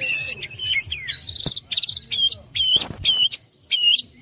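Caged songbirds singing. A short bright call opens it, a quick trill comes about a second in, and then one call repeats roughly twice a second.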